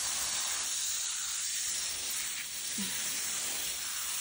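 Garden hose spraying water, a steady hiss.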